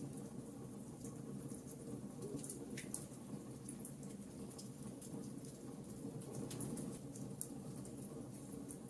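Wood fire crackling in a fireplace: irregular sharp pops and snaps over a steady low rushing of the flames.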